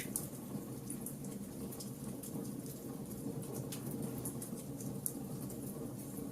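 Wood fire burning: a steady low rush of flames with frequent small, sharp crackles and pops from the burning wood.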